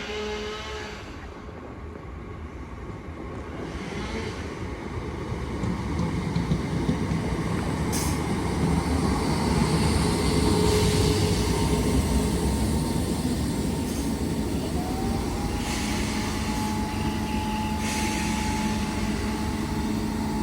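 Class 319 electric multiple unit coming into the platform, its running noise building over the first few seconds. About fifteen seconds in, a whine rises and then holds steady.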